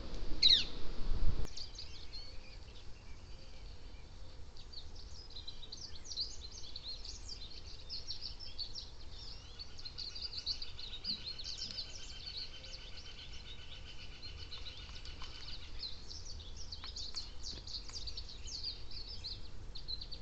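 Several backyard birds chirping and calling in quick, overlapping high notes. An evenly pulsed trill runs through the middle. In the first second and a half a low rumble and one quick falling whistle stand out before cutting off.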